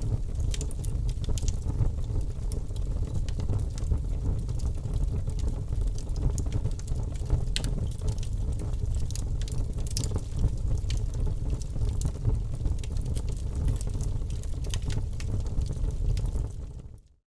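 Wood fire crackling in a fireplace: irregular sharp pops and snaps over a steady low rumble of the flames. Near the end it fades out to silence for a moment before resuming.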